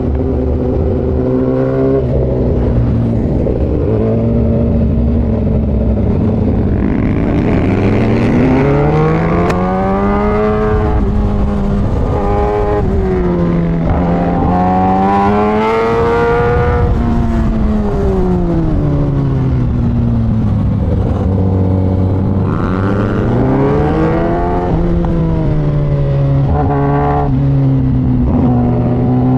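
Kawasaki ZX-10R inline-four superbike engine being ridden hard on a track. The revs climb in pitch under acceleration and drop away under braking, over and over every few seconds.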